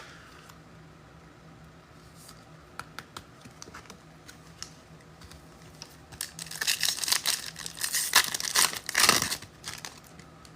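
A trading-card pack wrapper being torn open and crinkled: a few light clicks and rustles at first, then about three and a half seconds of loud tearing and crinkling that stops shortly before the end.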